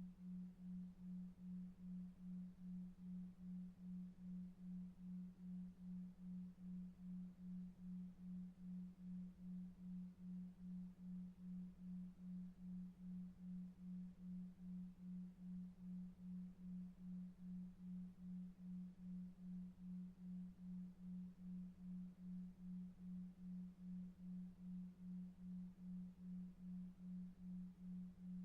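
A low, pure electronic tone pulsing evenly about two and a half times a second, over a faint brown-noise rumble: a 2.5 Hz delta-wave pulsed tone for sleep.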